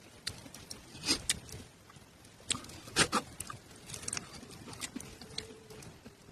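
Wood embers and fire crackling, with irregular sharp pops and snaps, the loudest about one and three seconds in.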